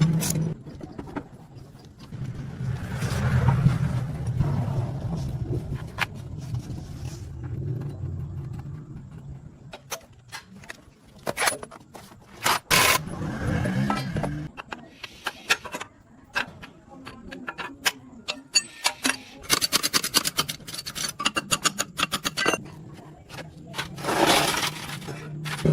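Car-repair workshop noises: repeated metal clicks, knocks and scraping from tools and parts. A steady low engine-like hum runs for several seconds in the first third, and a quick run of clicks comes near the end.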